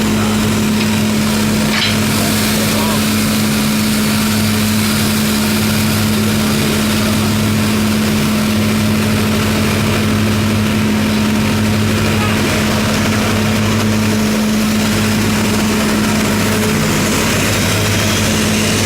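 Steam locomotive standing and running with a steady, unbroken mechanical hum.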